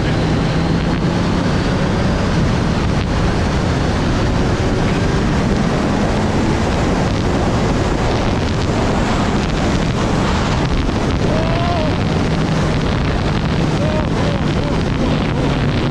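Wind noise from riding at speed, buffeting the microphone, over the 2020 Kawasaki Z900's inline-four engine running steadily underneath, its pitch shifting only slightly.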